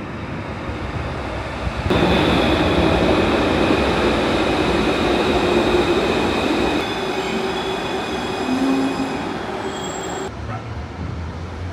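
Steady running noise of a moving vehicle, with thin high whining tones riding over it. It jumps abruptly louder about two seconds in and drops again near the end.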